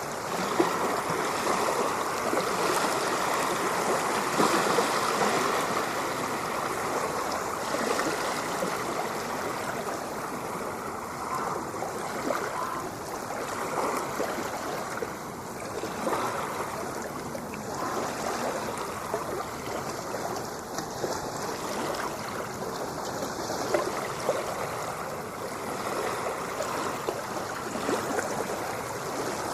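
Continuous rush of moving water with fine splashing and bubbling, swelling slightly a few seconds in.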